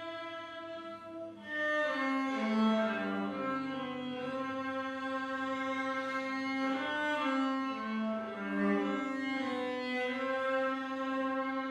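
A cello playing a slow hymn melody in long held, bowed notes. The sound dips briefly about a second in before the next phrase begins.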